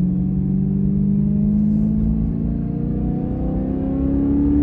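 BMW E92 M3's 4.0-litre V8 pulling under light throttle through its Valvetronics valved exhaust, the note rising slowly and steadily in pitch as the revs climb.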